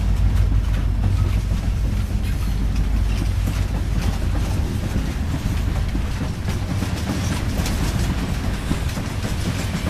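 Freight train of covered hopper cars and tank cars rolling past close by: a steady rumble of steel wheels on rail, with many small clicks and clatters running through it. The deepest part of the rumble eases off about halfway through.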